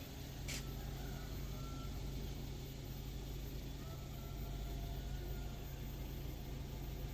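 Toyota Avanza engine running steadily at an even, unchanging speed. A single short click sounds about half a second in.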